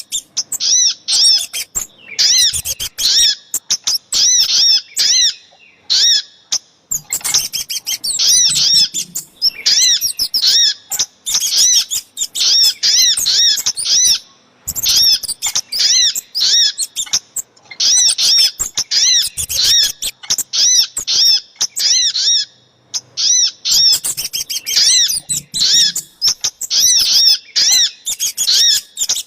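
Small songbirds calling in a bird-lure recording that mixes sogok ontong and kemade calls: loud, rapid runs of high, arched chirps, each run lasting a few seconds and broken by brief pauses.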